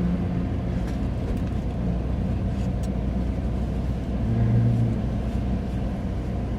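Car engine idling steadily, with a brief rise in revs about four seconds in.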